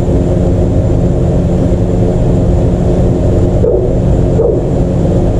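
A steady, loud mechanical drone with a low hum made of many stacked tones, running unchanged throughout.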